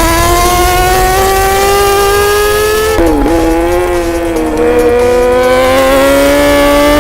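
Suzuki GSX-R1000's inline-four engine at high revs through an Akrapovič exhaust, the bike accelerating with its pitch climbing steadily. About three seconds in the note drops sharply at an upshift and then climbs again, with a smaller step down a little later.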